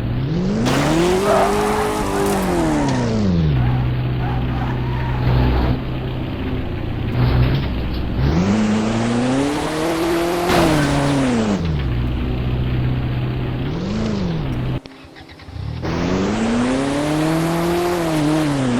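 A car engine revving up and back down several times, with a steady idle between the revs. The sound cuts out for about a second near fifteen seconds in, then revs up again.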